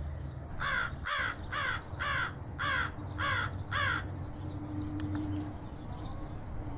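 A crow cawing seven times in a quick, even series of short harsh calls, about two a second, then stopping.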